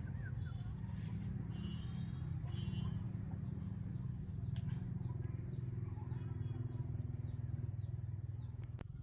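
A steady low rumble, like a motor running, with faint bird chirps over it and a high chirp repeating about twice a second through the middle.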